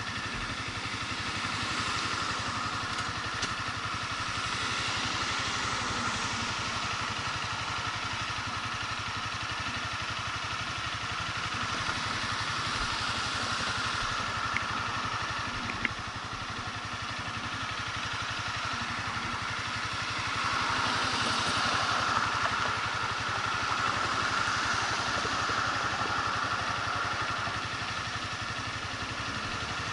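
Motorcycle engine running steadily while riding, with a few brief clicks.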